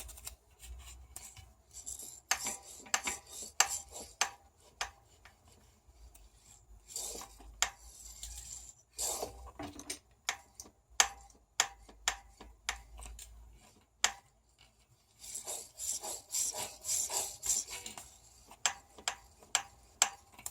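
RockShox Sektor Silver TK Solo Air suspension fork being pumped, giving irregular sharp clicks, often several a second, with stretches of rubbing between them. The clicking is what the owner traced to the loose inner tube in the air-spring leg knocking against the top cap.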